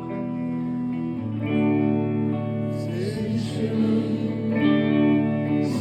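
Live band music with sustained guitar chords that change every second or so, and a man's voice singing a line about four seconds in.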